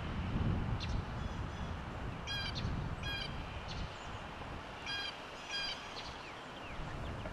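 A bird calling outdoors: four short calls in two pairs, the second pair about two and a half seconds after the first, over a low steady rumble.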